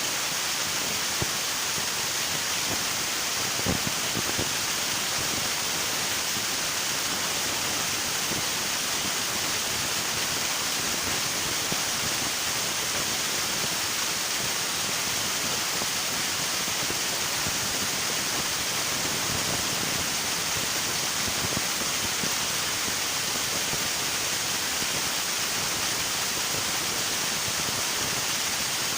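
Steady rushing of a river's flowing water, an even hiss with a few small splashes about four seconds in.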